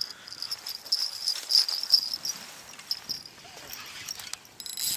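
Insects stridulating: a high, pulsing buzz that stops about three seconds in, with a few faint clicks.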